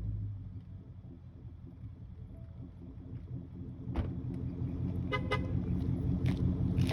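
Ford 5.0-litre Coyote V8 of a 2017 Mustang GT with a muffler delete, settling back from a rev to a low idle, then growing gradually louder. A sharp knock about four seconds in and a short beep about a second later.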